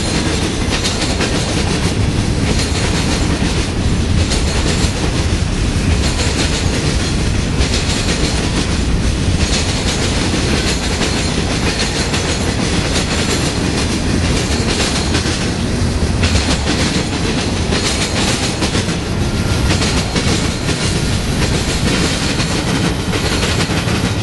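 Freight cars of a Union Pacific manifest train rolling past: a steady, loud rumble with the wheels clattering over the rails.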